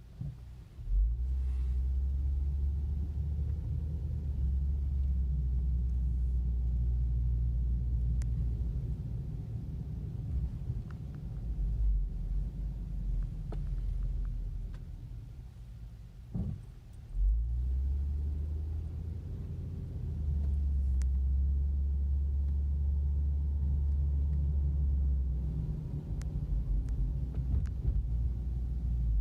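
Cabin sound of a 2016 Subaru Outback 3.6R's flat-six engine and exhaust, fitted with WRX mufflers, while driving: a steady deep low rumble. It eases off briefly around sixteen seconds in, then builds again.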